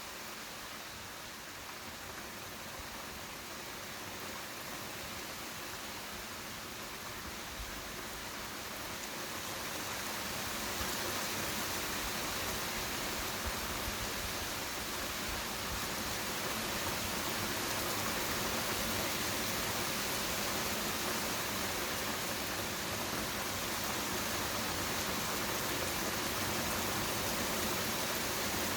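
Steady rain falling in an even hiss, growing louder and heavier about ten seconds in.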